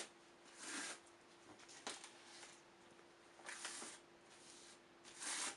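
Soft, faint swishes of a gloved hand smearing gypsum putty onto cardboard: three short strokes, with a couple of light clicks and a faint steady hum.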